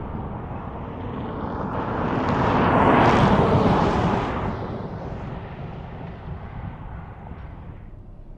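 A road vehicle driving past on the highway: tyre and engine noise swells to a peak about three seconds in, then fades away.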